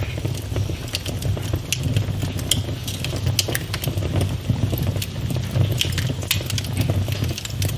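Wood fire burning in a fireplace: irregular sharp pops and crackles, several a second, over a steady low rumble of the flames.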